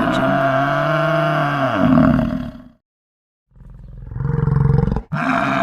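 Yak calling: a long, low call of about three seconds that wavers in pitch, then a shorter, rougher call a little later, and a third call cutting in suddenly near the end.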